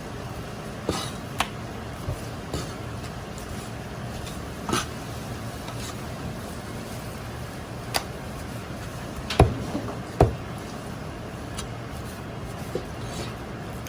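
Kitchen work over a steady low hum: scattered sharp clinks and knocks of utensils and cookware, a few at a time, the loudest two about nine and ten seconds in.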